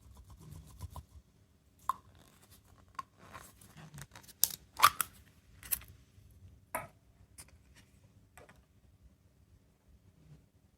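Small plastic objects handled close to the microphone: a string of irregular clicks, scrapes and crinkling, busiest and loudest about halfway through, then dying away.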